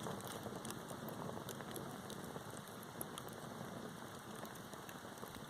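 Campfire crackling: scattered small pops and snaps over a steady hiss.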